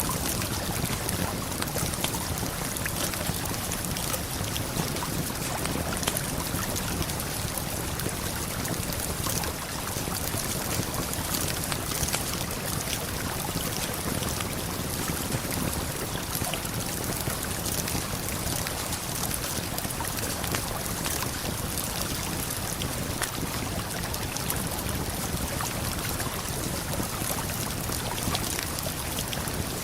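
Steady rush of a waterfall and flowing river water, unbroken throughout, with small scattered crackles of a campfire ticking over it.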